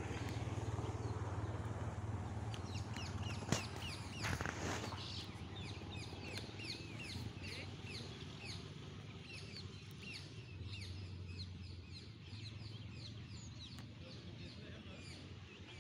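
Birds calling: a long run of short, high chirps, two or three a second, over a low steady rumble. A sharp click comes about three and a half seconds in, followed by a brief rush of noise.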